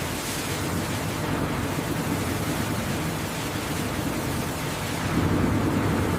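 Steady processing-line machinery noise: a low hum under a rushing hiss, getting a little louder about five seconds in.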